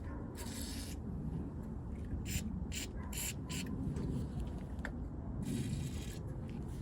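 Aerosol spray can hissing in five short bursts, the first and last about half a second long, over a steady low rumble.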